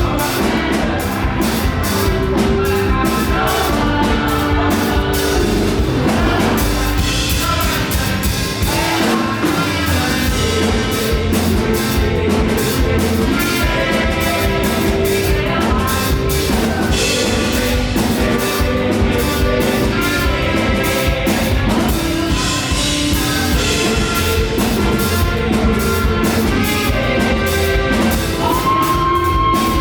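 Live up-tempo gospel praise music: a full band with a fast steady drum beat, and singing.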